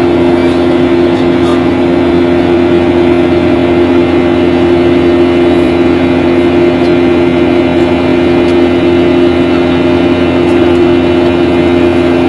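Steady drone of an airliner's engines heard inside the passenger cabin: two constant humming tones over an even rush of air noise.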